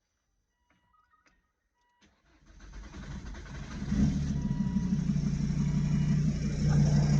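Volvo S60 D5 five-cylinder turbodiesel being started: a couple of faint warning chimes and a click, then the engine cranks from about two and a half seconds in, catches about a second and a half later and settles into a steady run. The owner reports that it knocks after starting and starts oddly, with the cause unknown.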